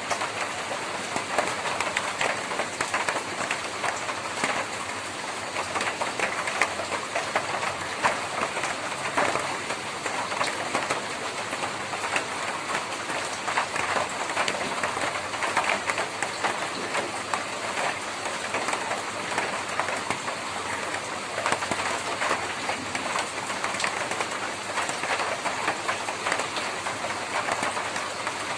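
Rain falling steadily on a tin roof, a dense patter of drops with many sharper individual hits.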